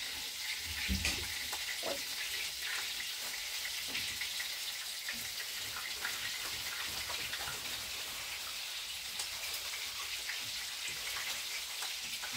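Minced-meat-and-cabbage cutlets frying in pans: a steady sizzling hiss with scattered small crackles and pops. A dull low thump about a second in.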